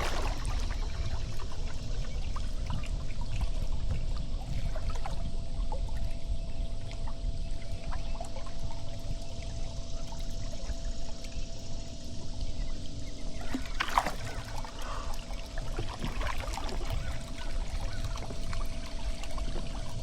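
Water trickling and dripping from a kayak paddle as it dips and lifts, over a steady low rumble. A sharper splash comes about fourteen seconds in.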